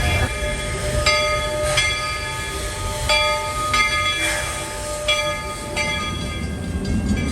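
Steam locomotive's bell ringing over and over, its strokes coming in pairs about every two seconds, over the low rumble of the train running on the track as it comes into a station.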